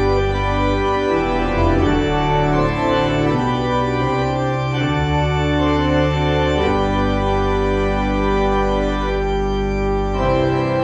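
Organ playing slow, sustained chords over held bass notes, the harmony changing every second or two.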